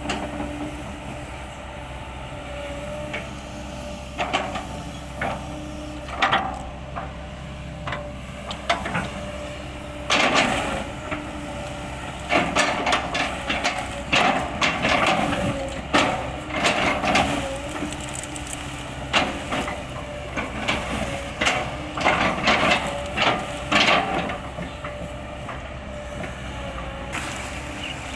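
Kobelco excavator engine running steadily, with repeated cracks and knocks as the bucket chops into an oil palm trunk. The cracking comes in dense clusters through the middle stretch.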